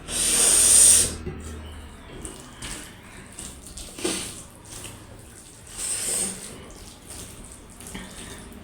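Close-up eating sounds: a loud wet slurp in the first second, then smaller slurps and mouth noises of a meal of dhido and dal about three and five seconds later.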